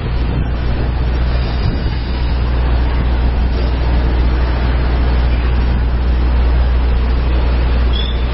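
Steady rumble and rush of a steam-hauled passenger train in motion, heard from a carriage window.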